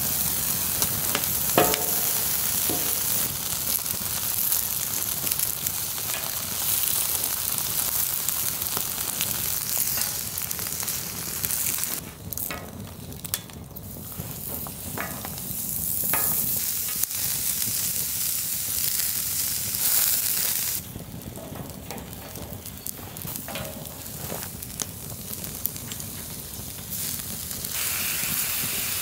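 Potatoes sizzling in oil on a hot steel fire-plate grill: a steady, dense frying hiss. It drops back for a few seconds about twelve seconds in and again for most of the last eight seconds.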